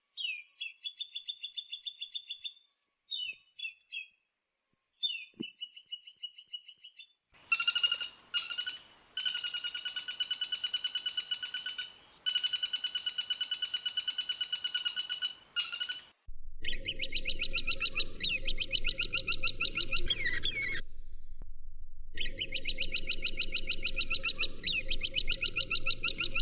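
Woodpecker calls: a series of rapid, rattling trills, each lasting one to several seconds with short pauses between. The last two trills come over a steady low hum.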